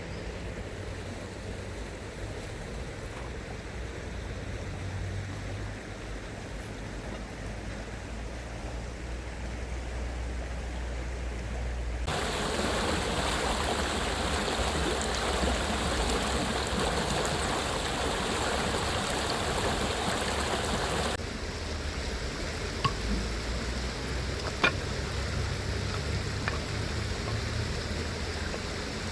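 Stream water running steadily. It is low and rumbling at first, turns to a fuller, louder rush about twelve seconds in, and drops back to a lower rumble about nine seconds later. Two sharp clicks come near the end.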